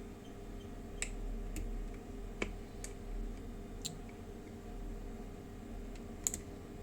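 Handling of small airsoft gun parts: about six scattered light clicks and taps, the sharpest near the end, over a steady low hum.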